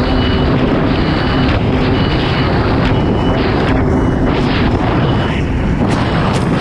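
Kawasaki STX 160 jet ski's four-cylinder four-stroke engine running hard under way, over a loud steady rush of wind and water. A high beep repeats about once a second throughout.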